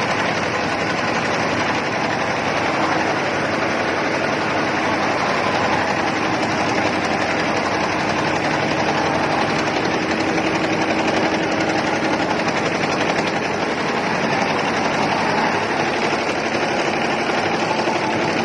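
Computerized embroidery machine running, its needles stitching in a steady, rapid mechanical clatter.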